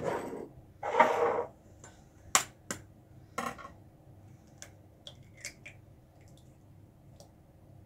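An egg cracked open with a knife: one sharp knock on the shell, then a short crackling scrape about a second in, followed by a few sharp clicks and scattered small taps of shell and utensils.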